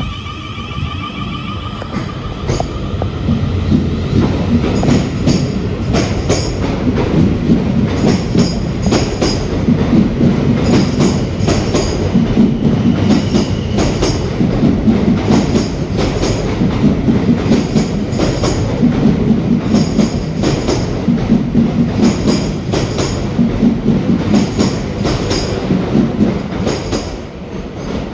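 Ten-carriage SWR class 444 Desiro electric multiple unit pulling out and passing close by: a loud steady rumble of wheels on rail, with clicks in pairs repeating every second or so as each bogie crosses rail joints. The rumble builds over the first few seconds and falls away near the end as the last carriage goes by.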